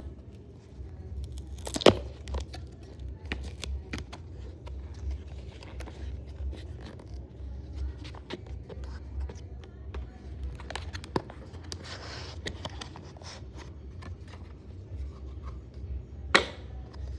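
Hands handling earbud packaging: scattered clicks and scrapes, a stretch of rustling or tearing about twelve seconds in, and two sharp snaps, one about two seconds in and one near the end.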